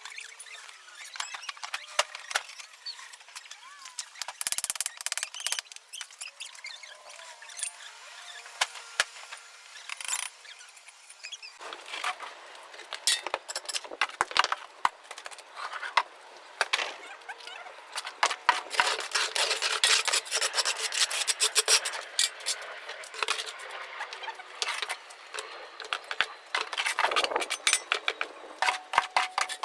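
Tools scraping and tapping on masonry in a quick, uneven run of clicks and scrapes, busier from about twelve seconds in.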